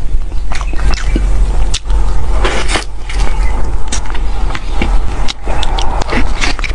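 Close-miked chewing of soft cream cake: wet mouth smacks and short clicks, with a steady low hum underneath.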